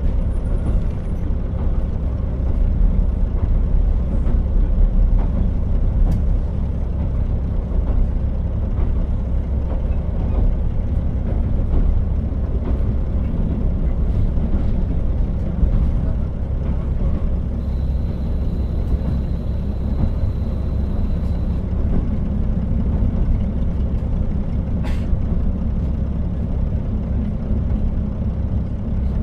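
KiHa 40 diesel railcar on the move: a steady low rumble of engine and wheels on rail, with a few sharp clicks. About two-thirds of the way through, a thin high tone sounds for about four seconds.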